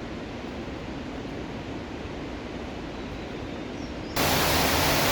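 Steady rush of flowing water, which cuts suddenly about four seconds in to a much louder, fuller rush.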